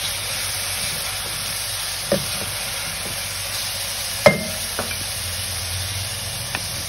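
Chopped onions, ginger-garlic paste and green chillies sizzling in mustard oil in an aluminium pan, stirred with a wooden spatula that knocks against the pan a few times, loudest about four seconds in.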